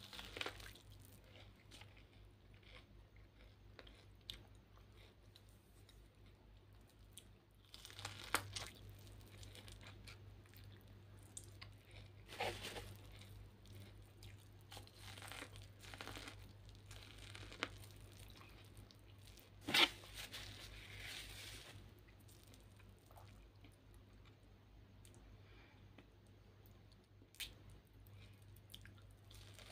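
Boiled corn on the cob being bitten and chewed, with scattered crunchy bites and wet mouth sounds; the loudest bite comes about two-thirds of the way through.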